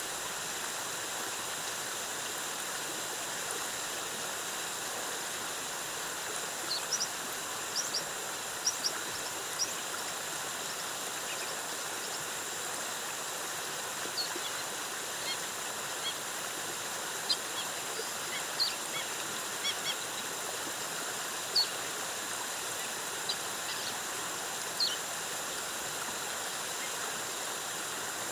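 Waterfall's steady rush of falling water, with a dozen or so short, high-pitched bird chirps scattered over it, some coming in quick pairs.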